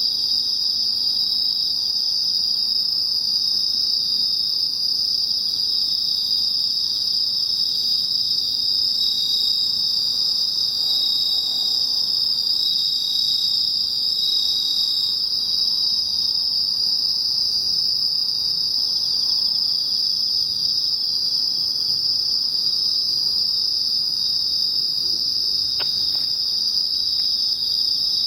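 Night chorus of autumn crickets, Japanese bell crickets (suzumushi) and field crickets (koorogi), singing steadily in many overlapping high chirps. A thinner, higher note drops out about halfway, and there is a faint click near the end.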